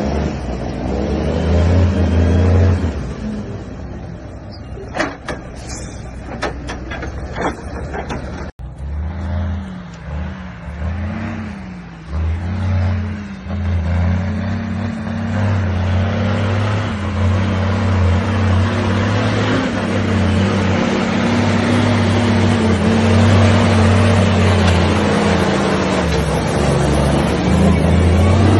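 Heavy logging truck's diesel engine running under load, its pitch rising and falling as it works, growing louder and rougher through the second half. A few short sharp clicks sound about five to seven seconds in.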